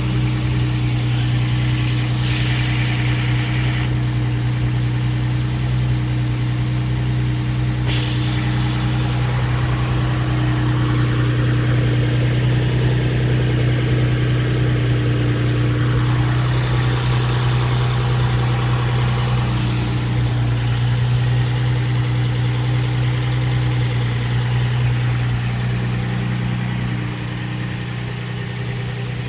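Steady low mechanical hum of a running machine, even in pitch throughout and dropping slightly in level near the end.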